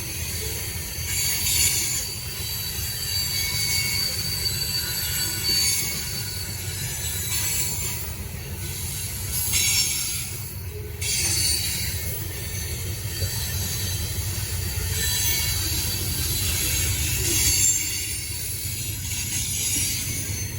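Freight train cars rolling past with a steady low rumble, and wheels squealing on and off in thin high tones.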